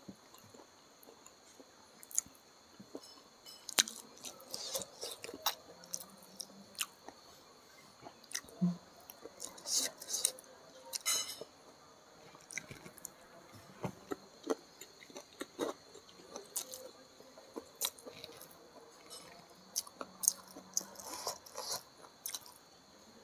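Close-miked chewing of rice with chicken gizzard and liver in green chili sambal, eaten by hand: irregular wet mouth clicks and chewing noises, with sharper clicks now and then.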